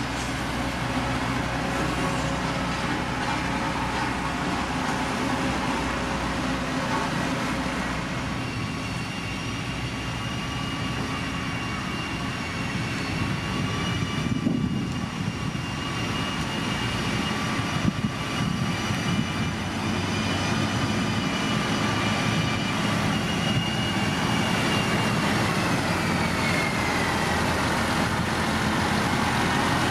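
Diesel engine of heavy road-building machinery running steadily under work, with a high whine over it that drops in pitch near the end and a couple of knocks around the middle.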